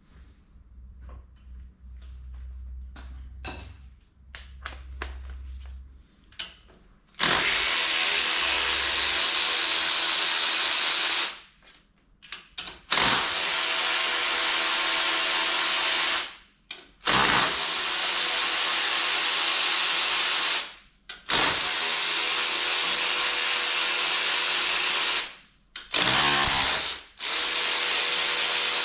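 A power tool runs in repeated steady bursts of about three to four seconds with short pauses between them, like fasteners being undone one after another. Before the first burst there are faint clicks and taps of hand work.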